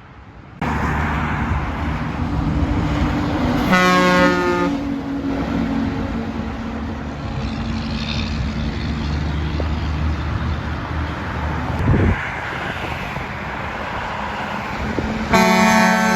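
Heavy truck's diesel engine running close by, with its air horns sounding a chord of several tones twice: a blast of about a second around four seconds in, and another starting near the end.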